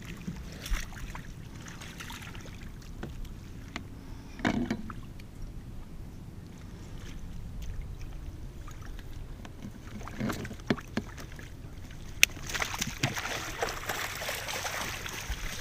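Scattered knocks, clicks and clatter of handling gear in a small fishing boat while a hooked double-crested cormorant is wrestled with a net, with a sharp click about twelve seconds in followed by a few seconds of rough rustling noise.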